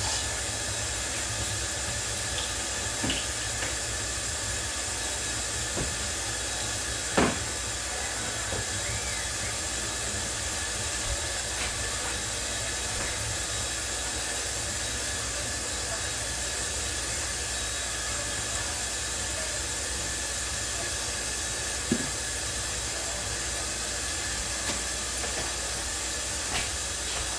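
Steady hiss over a low hum that does not change, with a few light knocks or clinks, the sharpest about seven seconds in and another about 22 seconds in.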